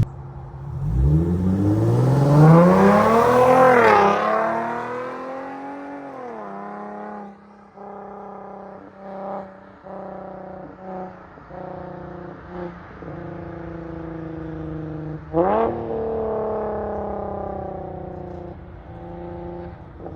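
Infiniti G37S V6 on an exhaust with resonators and a muffler delete, accelerating hard from a pull-away: the engine note climbs for a few seconds, then drops. It settles into cruising with small changes in pitch, and revs up sharply again about fifteen seconds in before easing off.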